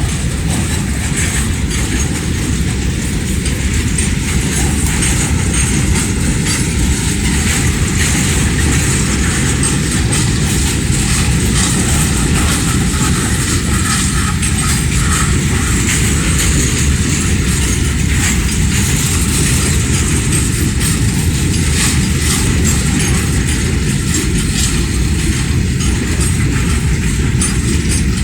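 Goods train of BCN covered wagons rolling past on the rails: a loud, steady noise of wheels on track with faint clicks throughout.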